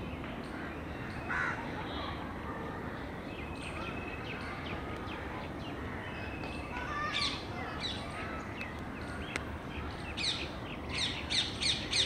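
Birds calling: scattered short, sharp chirps that grow busier, ending in a quick run of about five loud calls, over steady background noise.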